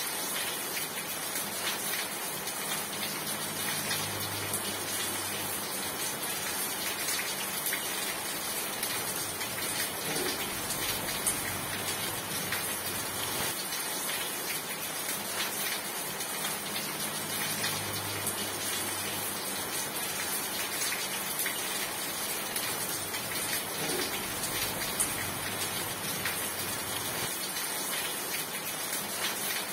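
Steady rain falling: an even hiss with many small drop ticks, holding at one level throughout.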